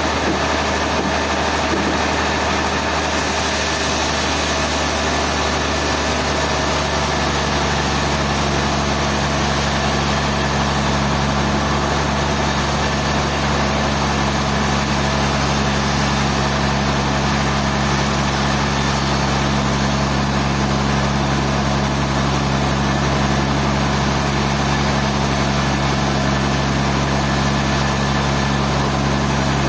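Sawmill machinery engine running steadily with a constant hum. A couple of low steady tones grow stronger about six seconds in.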